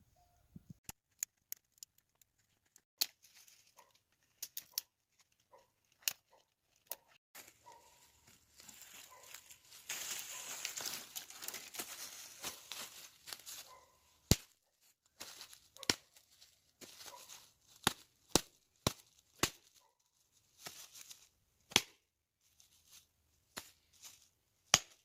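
Dry sticks and twigs being snapped and wood knocked about while a campfire is laid, a long series of sharp separate cracks. A stretch of rustling in the middle, like leaves or brush being handled.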